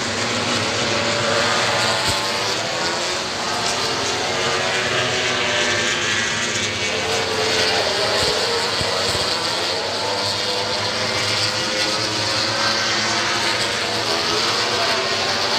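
Racing motorcycle engines running on the circuit: a continuous engine sound whose pitch keeps rising and falling as the bikes accelerate and change gear.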